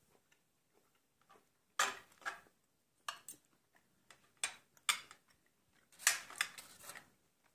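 A person chewing a bite of grilled steak close to the microphone: a series of irregular wet mouth clicks and smacks, the densest cluster near the end.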